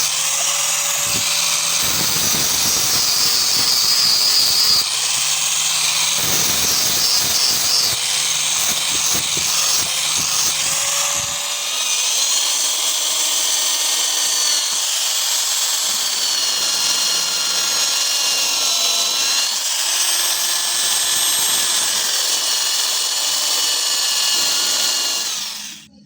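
Power tool working steel: a loud, steady high-pitched whine whose tones shift in pitch as the load changes, cutting off suddenly near the end.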